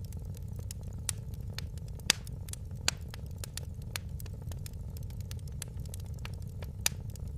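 Fire crackling in a fireplace: a steady low rumble of the flames under scattered sharp pops and snaps. Louder pops come about one, two and three seconds in, and another near the end.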